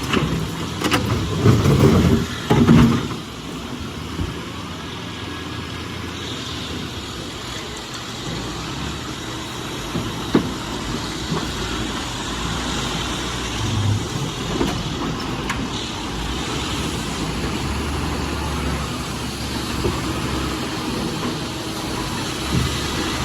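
Heavy truck engine running steadily, with a low drone. Several loud knocks and clatter come in the first three seconds.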